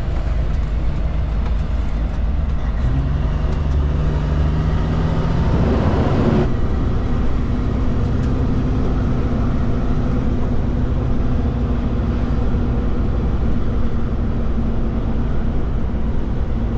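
Kenworth K200 roadtrain driving, its Cummins engine running steadily under road noise. About six seconds in there is a brief whoosh, and after it the engine note sits higher.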